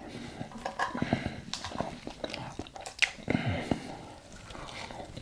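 Close-up chewing and crunching of a mouthful of salad, with irregular wet mouth clicks and crunches.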